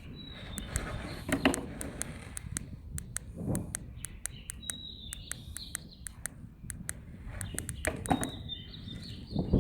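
Birds chirping in short calls, over many sharp irregular ticks and a few brief rustling swells.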